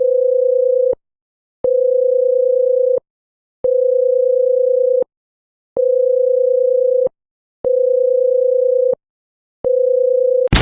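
Electronic beep tone: a single steady pitch sounding for about a second at a time with short gaps, six beeps in a row. A loud explosion-like burst of noise cuts in at the very end.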